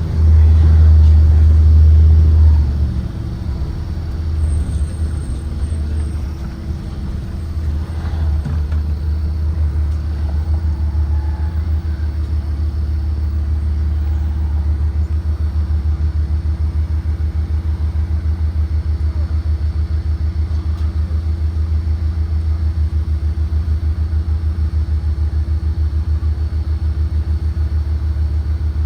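Blue Bird Vision propane school bus engine running with a heavy low rumble, loudest for the first few seconds, then settling into a steady, evenly pulsing drone.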